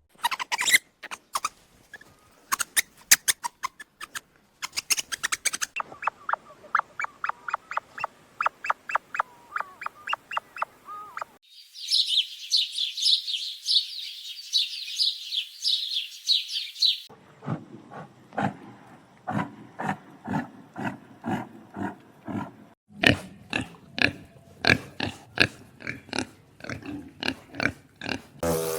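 Animal calls in several short takes: trains of rapid, pulsing calls, with a stretch of fast, high-pitched chirping in the middle.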